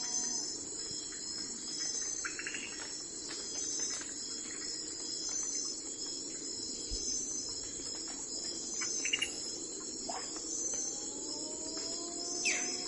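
Crickets chirping in a steady, pulsing chorus, with a few short bird chirps and one quick falling bird call near the end.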